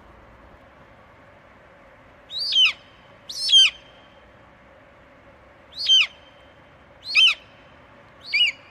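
A bird calling five times, each call short and sharp and falling in pitch, a second or two apart, over a faint steady hiss.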